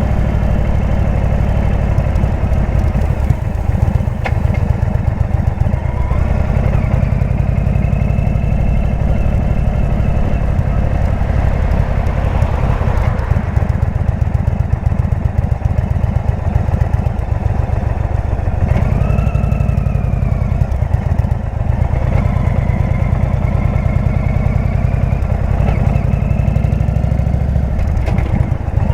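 Indian V-twin motorcycle engine running through a Jekill & Hyde exhaust while riding, a steady low pulsing beat. A higher tone rises and falls briefly about two-thirds of the way through.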